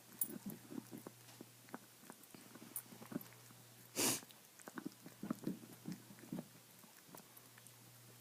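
Dog gnawing on a bone: irregular crunching and clicking of teeth on bone, with one louder, short rushing burst about four seconds in.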